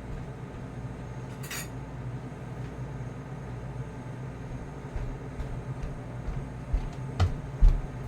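Household items being handled over a steady low hum: a brief hiss about a second and a half in, then a few knocks and clinks near the end, the last one the loudest.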